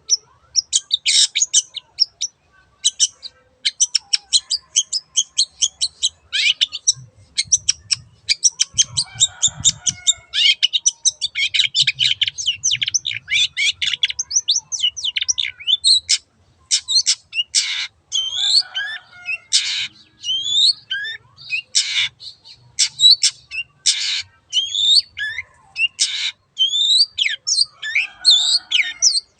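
Long-tailed shrike (cendet) singing: a fast, harsh chattering song of many short notes. About halfway through it turns to louder harsh calls mixed with short rising and falling whistles.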